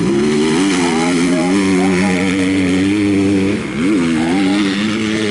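Motocross bike engine running hard at high revs. About three and a half seconds in, the pitch drops briefly and then climbs sharply again as the throttle is shut and reopened.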